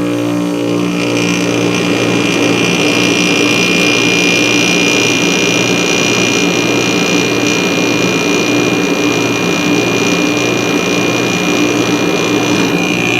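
Amana CoolZone 6,500 BTU window air conditioner running on low cool just after start-up: its rotary compressor and fan make a loud, steady hum that wavers in an even rhythm, with a high whine over it that fades near the end.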